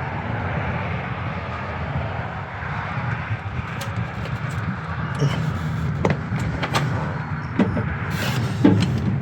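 Scattered light clicks and knocks of hand tools on metal in a truck's engine bay, over a steady low background rumble.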